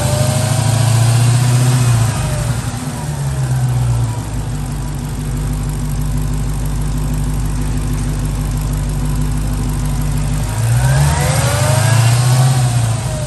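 Supercharged 6.2-litre HEMI V8 of a 2022 Hellcat Redeye, revved in short blips with supercharger whine rising and falling, settling to idle in the middle and revved again twice near the end. The engine is being checked for what the owner guesses is a misfire.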